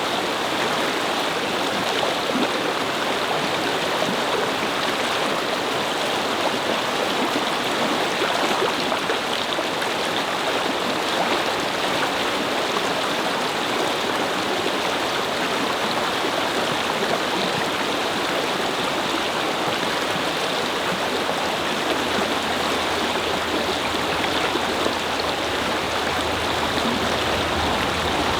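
Brook babbling: a steady rush of flowing water. A faint low hum joins in the last few seconds.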